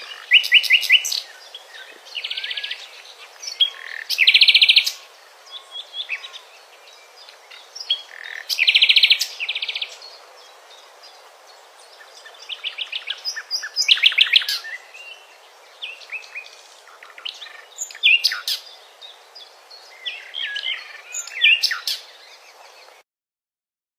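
Songbirds singing, with rapid trilled and chirped phrases recurring every few seconds over a steady hiss. The sound cuts off abruptly about a second before the end.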